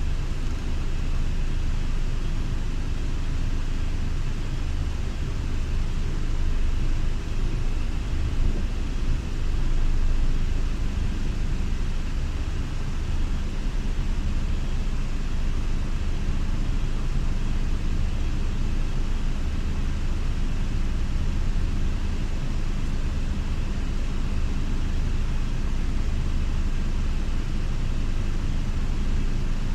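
Scania Irizar i6S coach's diesel engine running steadily at low speed with road noise. The engine swells a little for a few seconds about a third of the way through.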